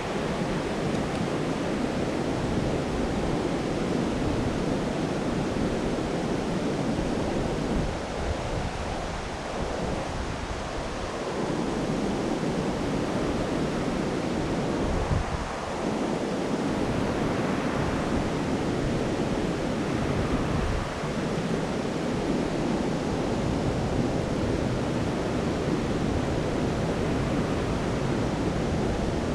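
Steady rush of fast-flowing floodwater in a swollen stream.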